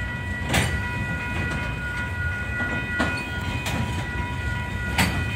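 Loaded tank cars of a slow-moving freight train rolling past over the crossing: a steady low rumble with a few loud, irregularly spaced wheel clacks over the rail joints. A steady high-pitched whine sits over it.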